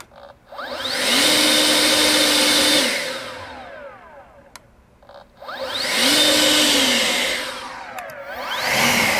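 EGO LB5302 battery-powered leaf blower running in short trigger pulls: the fan whine rises to a steady pitch, holds for a second or two, then winds down. It does this twice, and a third run starts near the end.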